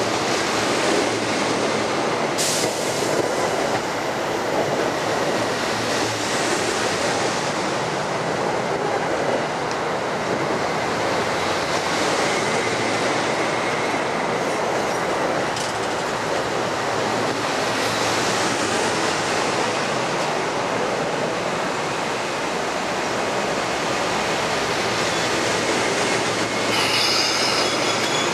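Metro-North electric commuter train cars rolling slowly past along a station platform: a steady rumble of steel wheels on rail, with a high squeal of wheels or brakes near the end.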